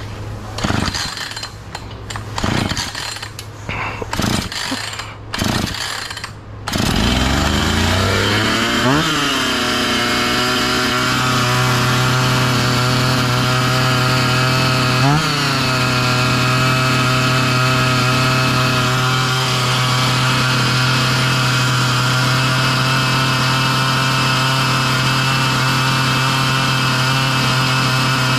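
Husqvarna 445 two-stroke chainsaw being pull-started: several short rope pulls, then the engine catches about seven seconds in, blips up twice and settles into a steady, fast idle. The idle is still running too fast after the low-speed mixture screw was turned in half a turn.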